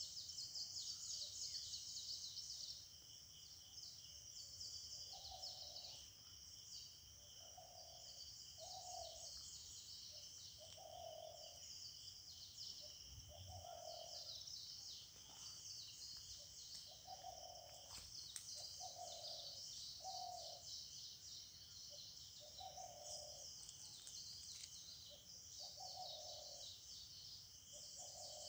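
Faint morning forest sound: a bird repeating a short low hooting call every one to three seconds, some notes in pairs, over a steady high-pitched buzzing chorus.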